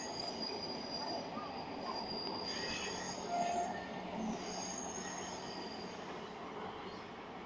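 Passing SNCB M4 passenger train, its wheels squealing on the rails: several thin, high tones that come and go over a steady rumble.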